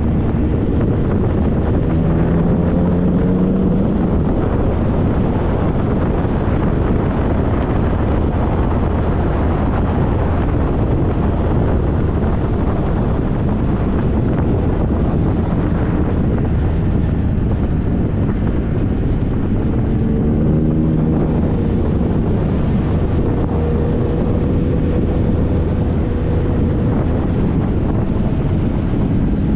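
2013 Triumph Trophy SE's three-cylinder engine running while riding, under heavy wind noise on the microphone. The engine note shifts in pitch about three seconds in and again about twenty seconds in.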